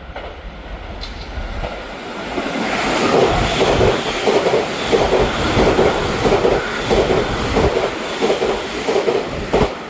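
Taiwan Railway EMU900 train's wheels clacking over the rail-joint fishplates as it runs through the station, a rhythmic clatter of about two to three knocks a second that builds up a few seconds in and stops with a last sharp knock near the end.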